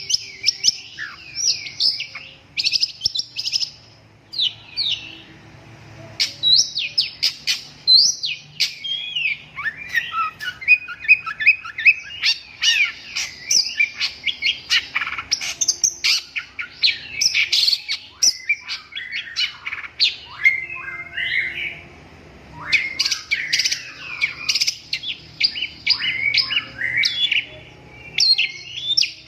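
Long-tailed shrike (cendet) singing a fast, varied chattering song of short high notes, slurs and chirps, with brief lulls about five seconds in and again around twenty-one seconds.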